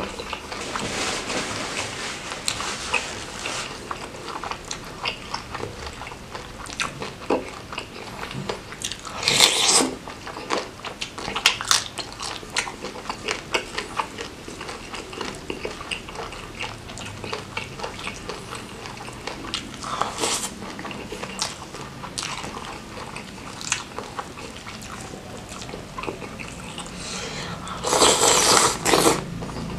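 Close-up wet eating sounds: chewing, lip smacking and slurping of jumbo prawns in thick Padang sauce, with many small wet clicks. Louder crunchy bites come about a third of the way in and again about two-thirds in, and the loudest comes near the end as a sauce-covered cob of corn is bitten into.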